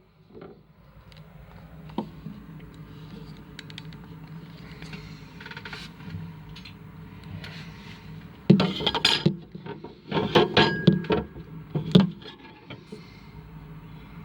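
Small hard objects being handled and set down: scattered clicks, then bursts of clatter and knocking a few times in the second half, over a steady low hum.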